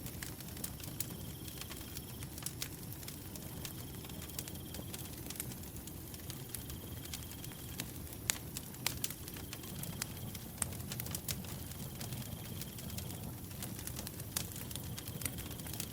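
Wood fire burning, with sharp crackles and pops over a low, steady rumble of flames. A cricket trills in high bouts of about a second, roughly every three seconds.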